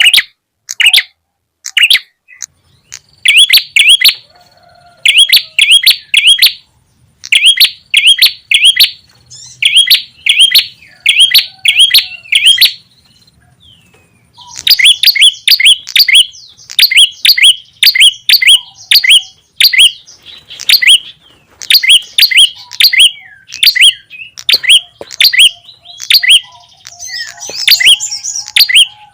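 Small-songbird lure calls of the prenjak tamu (red-headed prenjak). Sharp, high chirps come in quick groups of two to four, repeated with short gaps, with a brief pause about halfway through.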